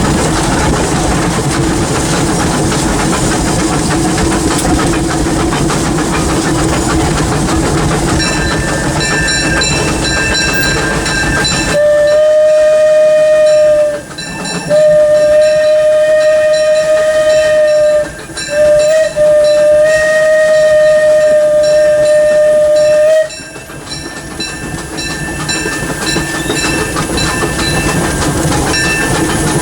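Disneyland Railroad steam locomotive running, then its steam whistle blowing about twelve seconds in: a short blast followed by two long ones, about eleven seconds in all, before the running noise of the train returns.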